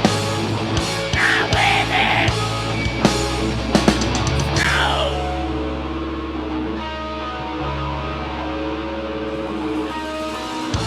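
Heavy metal band playing live with distorted guitars, bass and hard-hit drums. About five seconds in the drums stop and held guitar and bass notes ring on.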